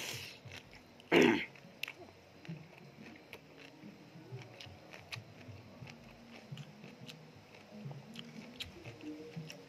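Close-up mouth sounds of a person eating sea grapes dressed as urap off a spoon. There is a loud wet mouth noise about a second in as the spoonful goes in, then soft scattered clicks of chewing.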